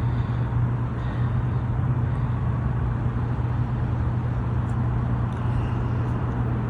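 A steady low hum over a constant background rumble, like a vehicle or machine running, with no change in pitch or level.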